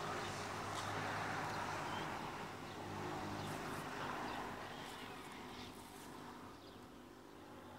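Outdoor countryside ambience: a rushing noise that slowly fades, with a few faint bird chirps over it.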